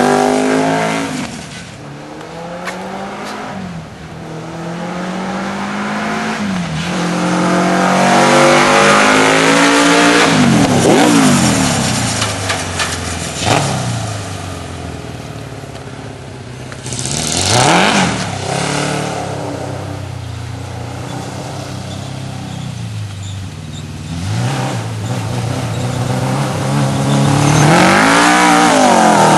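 Kawasaki KZ650 air-cooled inline-four motorcycle engine in a homemade go-kart, revving up and easing off again and again as the kart accelerates and slows. Its pitch climbs and drops several times, with quick sharp swings about a third of the way in, just past halfway and near the end.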